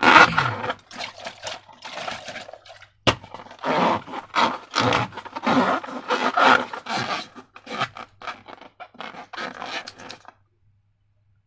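Rubber balloons and slime being handled and squeezed: irregular rubbing and scraping strokes that cut off suddenly near the end.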